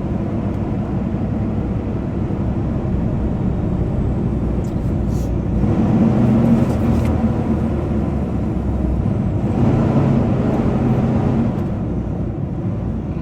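Semi truck's PACCAR MX-13 13-litre diesel running under load, heard from inside the cab while pulling about 75,000 lb. The engine note swells louder twice, about six seconds in and again around ten seconds in, as the revs climb.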